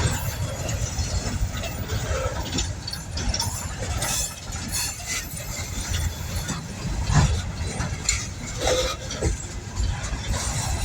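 Long coal train rolling past close by: a steady low rumble of wheels on rail, with irregular clanks and clicks from the cars.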